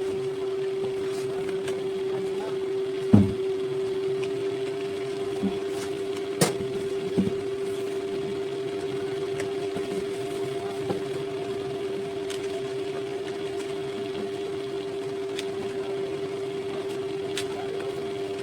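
Small electric motor running with a steady, unchanging hum, and a few sharp knocks or clicks, the loudest about three seconds in.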